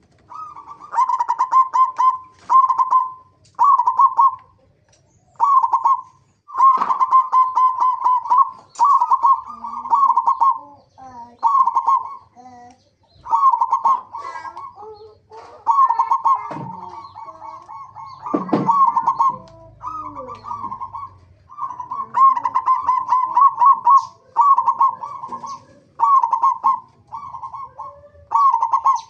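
Zebra dove (perkutut) cooing: repeated bouts of rapid staccato coos, one every two seconds or so, with short gaps between them. Fainter lower gliding calls from other birds come in between the bouts.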